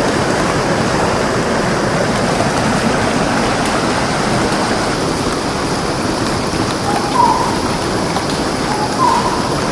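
Steady rush of running water, like a stream or small waterfall. A bird calls over it about seven seconds in and again near the end, each call a short lower note followed by a higher one.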